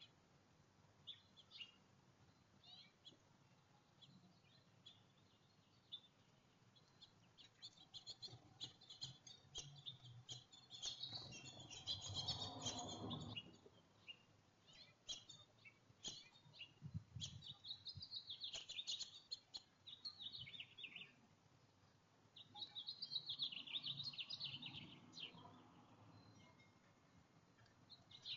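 Small songbirds chirping and twittering faintly in scattered runs of short high notes, busiest in the middle and again near the end, with a couple of soft low thumps midway.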